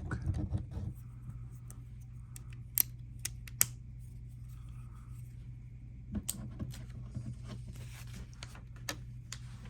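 LEGO plastic pieces being handled and snapped together: scattered sharp clicks and light rattles, most around three seconds in and again in a cluster in the second half, over a steady low hum.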